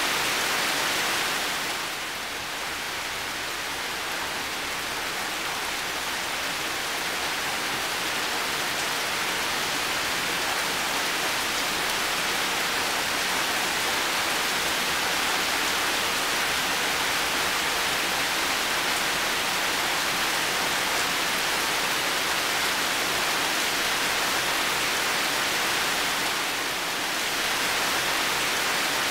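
Heavy rain falling steadily, a dense even hiss of countless drops. It eases slightly about two seconds in and swells back near the end.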